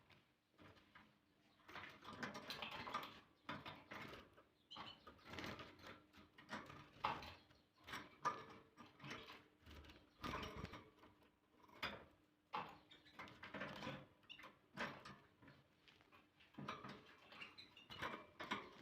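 Canary bathing in a shallow water dish: irregular light splashes and brief wing flutters, with small clicks, coming in short bursts every second or so.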